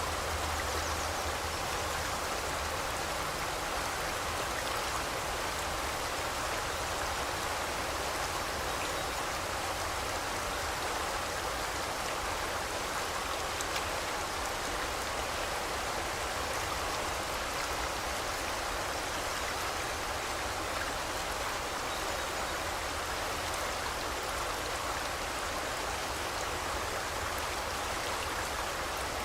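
Forest river flowing: a steady, even rush of water that holds unchanged throughout.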